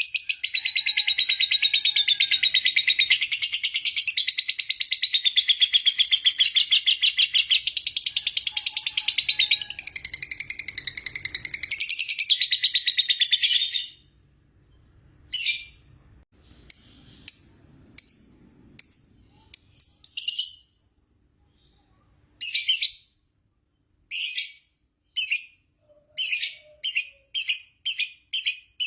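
Lovebird giving a long, fast, high-pitched chattering trill (a long "ngekek") for about fourteen seconds. It then breaks off into short separate bursts with pauses between them, and starts a fast run again near the end.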